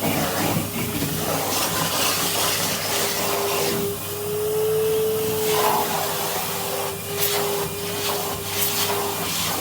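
Vacuum cleaner running with a brush attachment, the hiss of suction mixed with brushing and rubbing. A steady whine comes in about three seconds in, rises a little in pitch for about a second, then holds.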